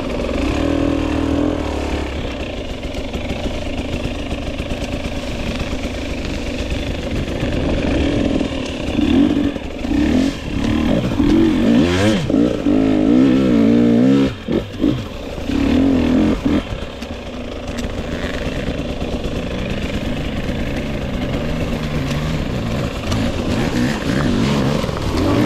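2022 GasGas EX 250 two-stroke dirt bike engine being ridden, its pitch rising and falling with the throttle. It is opened up harder in several bursts around the middle, with the throttle chopped briefly a couple of times.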